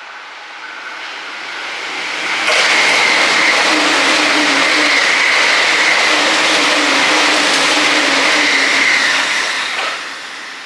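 Electric train passing close by at speed. The noise builds for the first couple of seconds, then turns suddenly loud and steady with a high whine, and eases off near the end as the train moves away.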